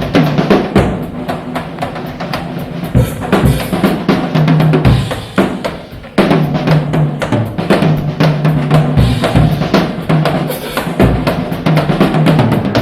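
Live rock drum kit playing a busy, drum-led passage of kick, snare and rimshots over a low bass line, heard on a soundboard recording. The playing drops back briefly about five seconds in, then comes straight back in full.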